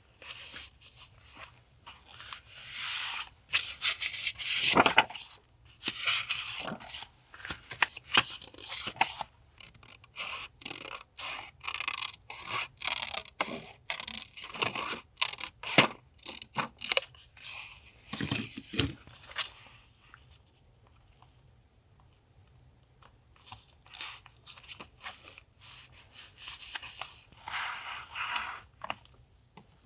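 Paper being handled for a journal collage: rustling, rubbing and tearing, with many short crackles and taps. It goes quiet for a few seconds about two-thirds of the way in.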